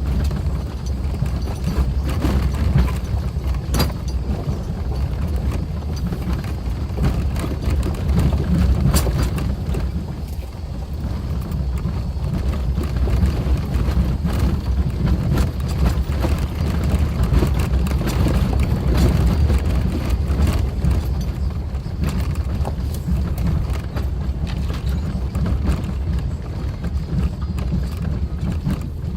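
A Suzuki Jimny driving along a forest road: a steady, rough low rumble of engine and tyres, with a few sharp knocks from the track and bodywork.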